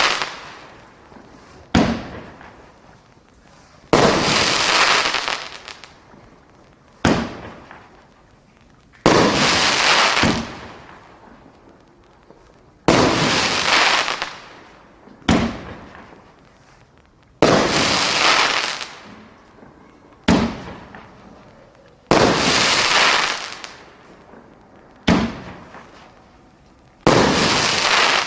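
A 350 g consumer fireworks cake (Miracle Fireworks Blue Angels) firing shot after shot, about every two to three seconds. Each shot is a sharp bang, and the larger ones trail off into a couple of seconds of crackling from the crackling willow bursts.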